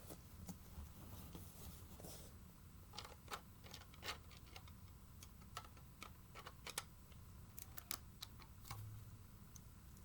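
Scattered light clicks and taps, most likely Lego plastic pieces of the model being handled, over a faint low hum of room tone.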